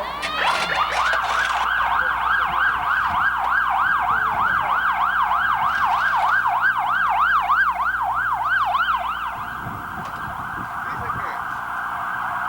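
Emergency vehicle siren in a fast yelp, its pitch rising and falling about three to four times a second, changing to a steadier, rougher tone for the last few seconds.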